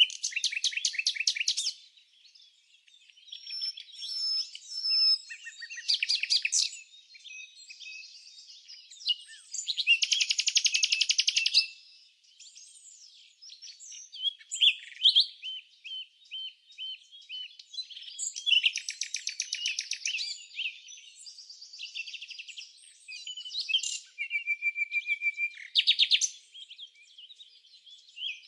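Small birds chirping and singing, with a fast high trill every few seconds, each lasting a second or two, and scattered chirps between.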